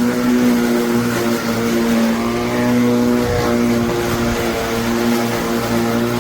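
A Greenworks 40V cordless yard tool's electric motor running at a steady, even pitch, briefly dipping and wavering about three seconds in before settling again.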